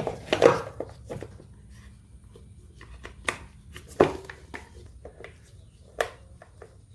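Hands refitting a portable generator's air filter and cover: a string of sharp clicks and knocks, the loudest just after the start and about four seconds in.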